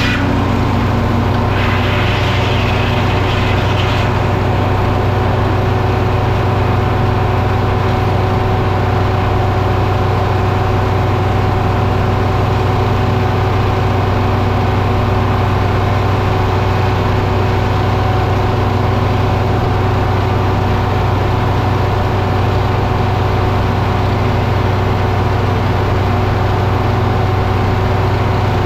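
Engine running steadily at a constant speed, with a higher hissing sound over it for the first few seconds that stops about four seconds in.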